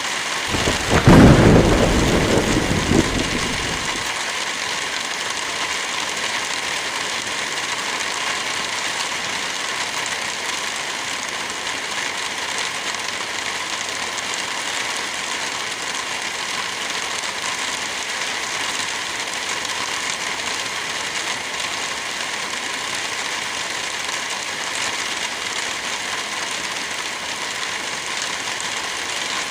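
Steady heavy rain, with a loud thunderclap about a second in whose rumble fades out over the next few seconds.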